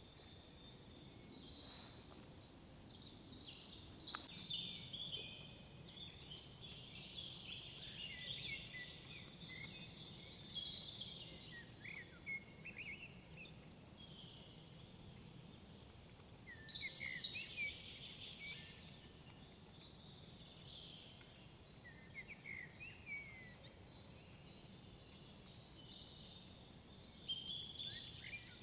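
Several songbirds singing in woodland: overlapping song phrases and twittering, with a high trill returning every several seconds, over a faint steady background hush.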